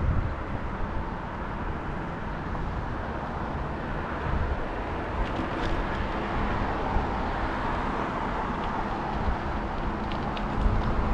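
Wind buffeting the microphone and road noise while riding a bicycle, a steady rushing rumble with a few faint clicks.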